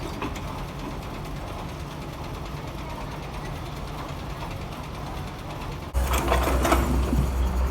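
Heavy construction machinery engine running with a steady low drone and mechanical rattling, turning abruptly louder about six seconds in, with clattering.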